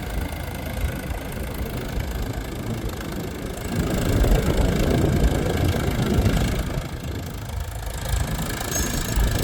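Tractor engine running steadily as it pulls a cultivator, growing louder for a few seconds in the middle, easing off briefly, then louder again near the end.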